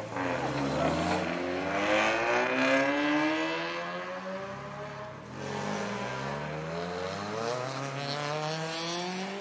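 Car engine accelerating hard, its revs climbing steadily, then dropping at a gear change about five seconds in and climbing again through the next gear.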